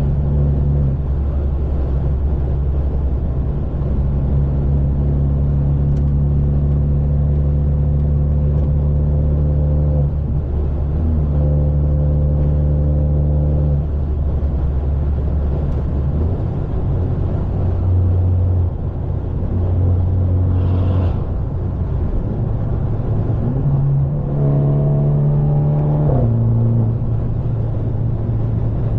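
Straight-piped, catless BMW 530 exhaust droning loudly while the car is driven. The pitch steps up and down abruptly several times as the engine speed changes.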